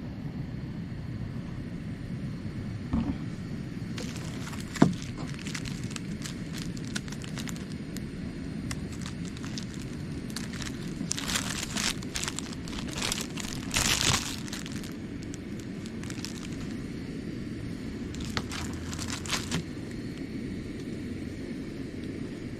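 A steady low hum under intermittent crinkling and rustling, like something being handled, busiest in the middle and again near the end, with a sharp click about five seconds in.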